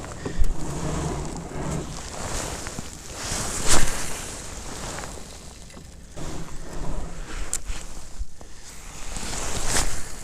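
Wind buffeting the microphone and water sloshing against a kayak hull, with two sharp knocks, one just after the start and a louder one about four seconds in.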